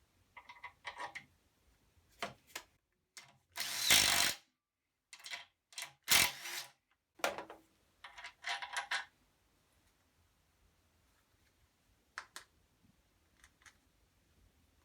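Tools at work on the bolts of an outboard motor's exhaust housing: scattered clicks and clinks, with two louder bursts about a second long, about four and six seconds in, then a few faint clicks near the end.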